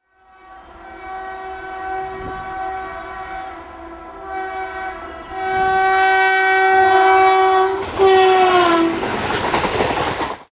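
Electric locomotive horn sounding in a series of long blasts, growing louder as the train approaches. Its pitch drops as it passes, then comes the noisy rush of the passing train before the sound cuts off abruptly.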